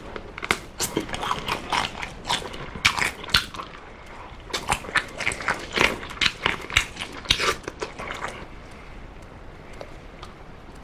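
Close-miked chewing and biting of an oven-baked chicken drumstick: a quick run of sharp mouth clicks in two spells, dying down about eight seconds in.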